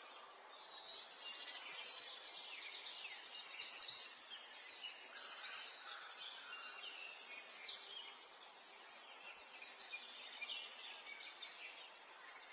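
Wild birds chirping and calling in quick, high chirps that come in bursts, over a faint steady outdoor hiss.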